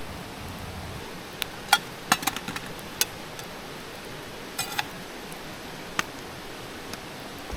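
Scattered light clinks and taps of small hard objects being handled, about eight in all, bunched near the middle, two of them ringing briefly, over a steady hiss.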